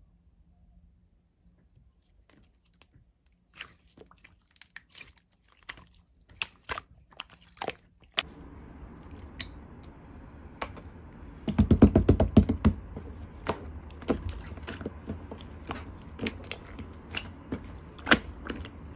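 Slime being pressed and worked by hand, giving scattered sharp clicks and pops. About eight seconds in a low steady hiss comes in, and a few seconds later a fast run of loud crackling pops is the loudest part.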